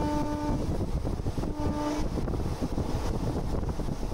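Passenger train running along the track, heard from an open carriage window: a steady rumble of wheels and rushing air with wind buffeting the microphone. A steady pitched tone, horn-like, ends about half a second in and sounds again briefly about a second and a half in.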